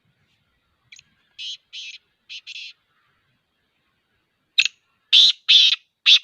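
Black francolin calling: a quieter phrase of about five short, harsh, grating notes, then after a pause a louder phrase of about four.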